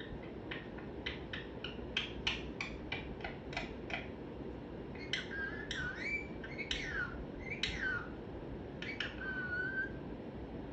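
Pet parrot making soft vocal sounds: a quick series of clicks, then several short whistled calls that slide up and down in pitch, and a few more clicks ending in a brief steady whistle.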